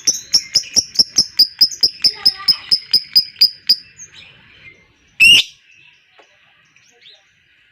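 Lovebird giving its long chattering trill ("ngekek"): a rapid run of sharp, high chirps, about five a second, that stops after nearly four seconds. A single loud, shrill call follows about five seconds in.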